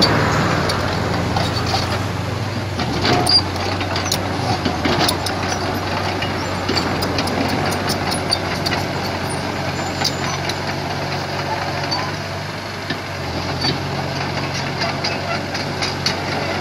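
Komatsu PC75 hydraulic excavator working, its diesel engine running steadily, with scattered metallic knocks and clanks, the loudest about three seconds in. The engine eases off briefly around twelve seconds in, then picks up again.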